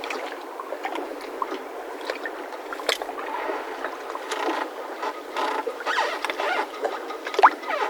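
Mooring ropes of moored boats squeaking and creaking irregularly as the boats shift in the water, with a louder, sharper squeal near the end.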